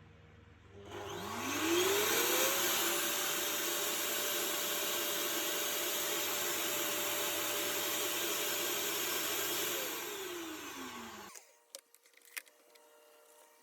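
Electrolux UltraFlex vacuum cleaner motor switched on: its whine rises as it spins up, runs steadily for about eight seconds, then falls away as it spins down and stops. A few faint clicks follow.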